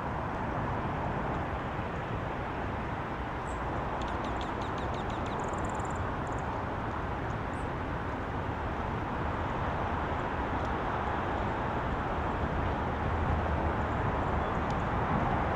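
Steady traffic noise with a small bird's quick string of high chirps about four seconds in, lasting a second or two, and a few single high chirps later.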